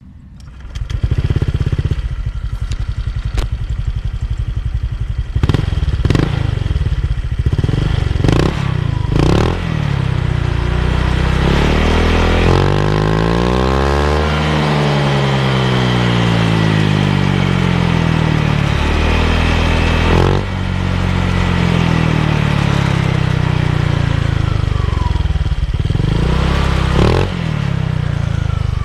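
Honda Vario scooter's single-cylinder four-stroke engine through a Rob1 Cup V aftermarket racing exhaust, starting up and idling, then blipped sharply several times, held at higher revs for several seconds and let back down to a loping idle, with one more blip near the end.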